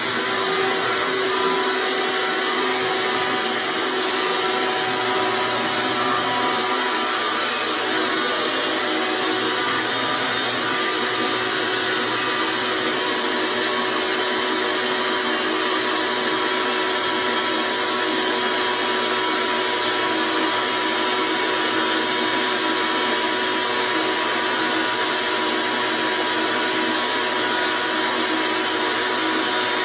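Electric motor of drain-cleaning equipment running steadily without a break: an even hiss with several steady tones over it.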